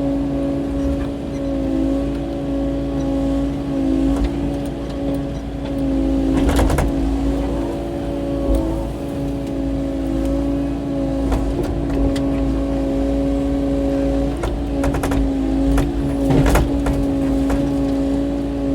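Kubota KX080-4 excavator's diesel engine running steadily at working speed under a steady hydraulic whine, with a couple of sharp knocks, about a third of the way in and again near the end.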